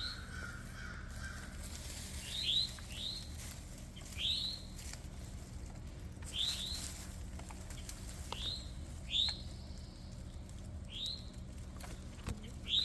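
Northern cardinal giving sharp, short chip calls, each note falling quickly in pitch, about ten of them at irregular intervals.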